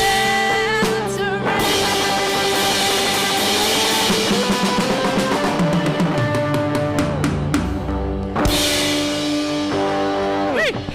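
A live worship band playing with a full drum kit. A sung line ends about a second and a half in, then the band carries on without singing, with a cymbal crash about eight and a half seconds in.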